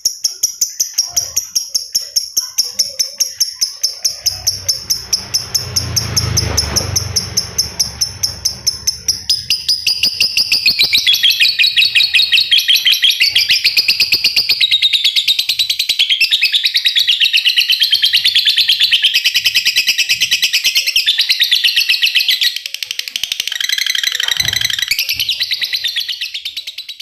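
A caged lakbet songbird chattering in a long, rapid run of high repeated notes, its 'ngekek'. The notes come as separate quick pulses at first, run together into one unbroken fast chatter from about ten seconds in, and break off briefly near the end. A low rumble underlies the first part.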